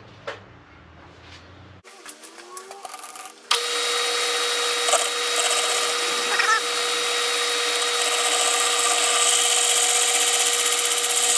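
A machine motor running steadily with a constant whine and hiss. It starts abruptly about three and a half seconds in, after a quiet stretch with faint handling sounds.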